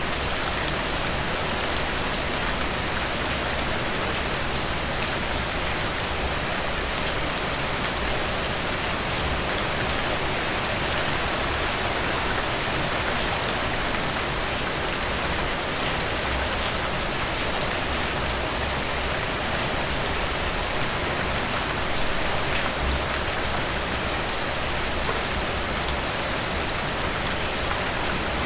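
Heavy rain falling steadily, a dense even hiss with many small sharp drop ticks on top.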